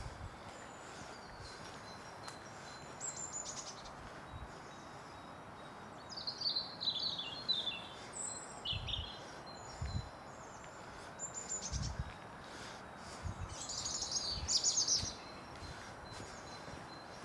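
Wild birds singing in short, separate bursts of high chirps, one series falling in pitch about six seconds in, over a steady background hiss. A few low thumps come in the second half.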